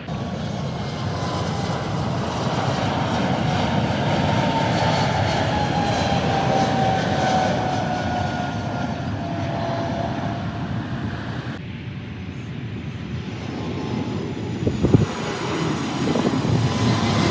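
Jet airliner on landing approach passing close by: a steady engine roar with a whining tone that slowly falls in pitch as it goes past. The sound changes abruptly about twelve seconds in, and there are a few short thumps near the end.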